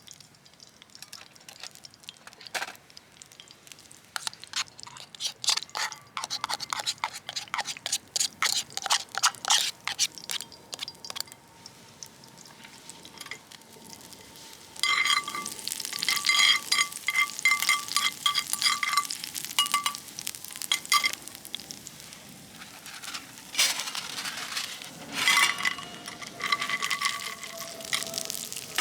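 Food sizzling in a pan over a campfire, with many short clicks and a metal utensil scraping and ringing against the pan.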